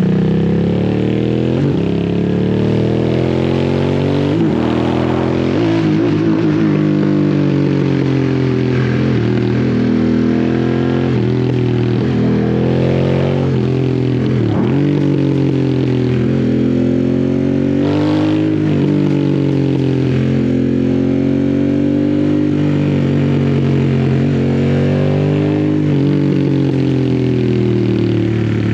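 2022 Harley-Davidson Sportster S's 1250 cc V-twin with a custom slip-on exhaust, pulling at fairly low revs through bends: the engine note rises under throttle and drops off sharply several times as the rider shifts or rolls off, with one short knock about two-thirds of the way through.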